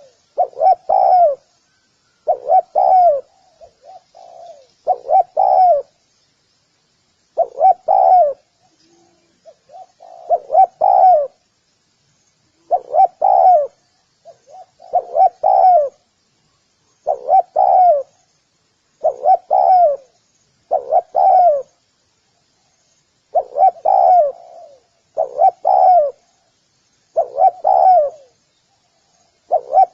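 Spotted dove cooing: short phrases of two or three low coos, repeated about every two seconds. Faint high chirping runs underneath.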